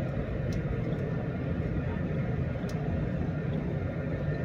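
Steady low rumble of an Amtrak San Joaquins passenger car in motion, heard from inside the car, with a faint steady high tone and a few light ticks over it.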